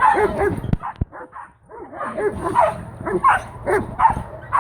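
A dog barking over and over in quick, short barks, pausing briefly about a second in. Two sharp knocks sound just before the pause.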